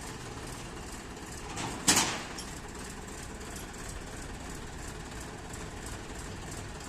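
Massey Ferguson 7250 tractor's diesel engine running steadily, with one loud sudden noise about two seconds in.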